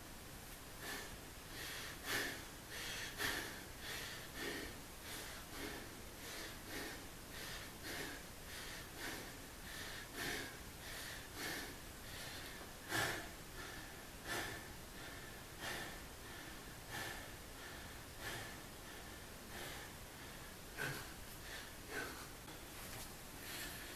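A person breathing hard in a steady rhythm, short puffing breaths about every half second, from exertion during exercise.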